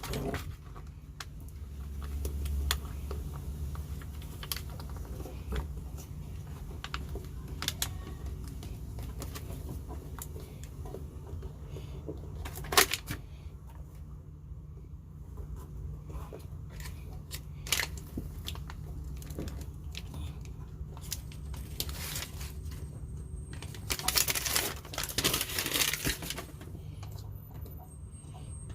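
Inside the cab of a Mazda B2200 pickup: a low steady drone with scattered clicks and small rattles, and a louder rustling stretch about 24 seconds in.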